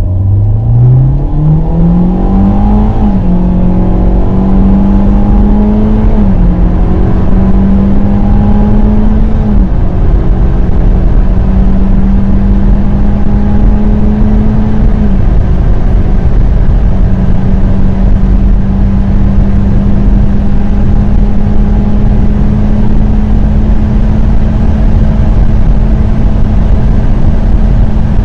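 2021 Hyundai Elantra accelerating at full throttle. The engine note climbs and drops back at each gear change, about 3, 6, 10 and 15 seconds in, then holds at a steady pitch as the car nears its top speed, over a loud steady rush of road and wind noise.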